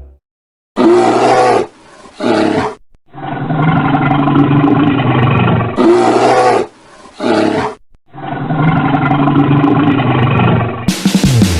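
Loud calls from a large animal: two short calls followed by a long drawn-out call, the sequence heard twice.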